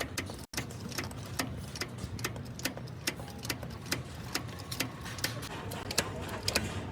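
Quick light taps or clicks, several a second and unevenly spaced, over a low steady hum.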